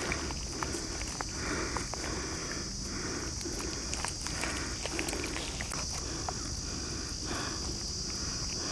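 Hands squishing and rubbing a wet spice marinade into a whole raw chicken, in soft pulses about twice a second, while insects chirr steadily in the background.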